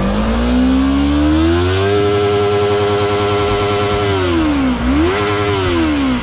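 Yamaha MT-03 motorcycle engine revved while standing: the pitch climbs over about two seconds, holds high for about two seconds, drops, is blipped up once more and falls back toward idle near the end.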